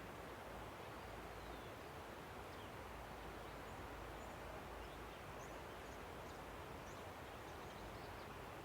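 Steady rush of a river, with faint, scattered high bird chirps over it.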